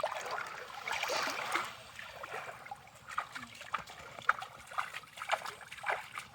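Water splashing and trickling: a loud burst of splashing at the start, then irregular small splashes and drips.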